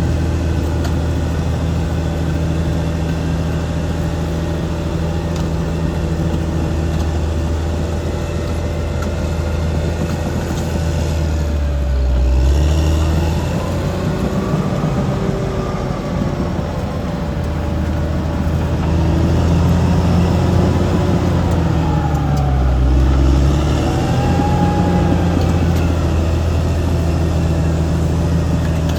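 Caterpillar D6R XL bulldozer's diesel engine running steadily under load. Twice, about twelve and twenty-three seconds in, its pitch drops and then picks up again as the machine works.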